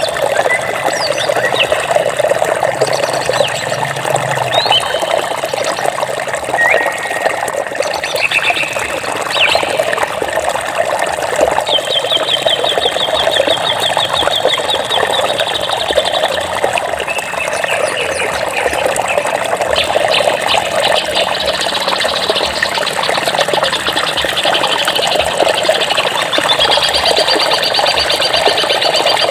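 Steady rush of running water, with birds chirping over it and breaking into rapid trills, one long trill near the middle and another through the last third.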